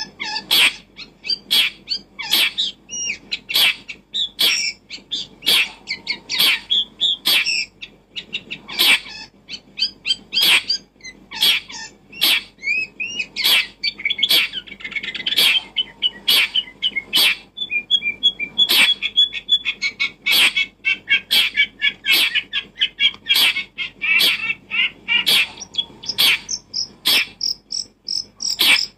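Birds chirping and twittering continuously, broken by many short, sharp calls about one or two a second.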